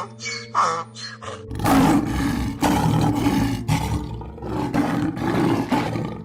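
A large animal giving a series of rough, deep roars with short breaks between them, starting about a second and a half in, over faint steady background tones.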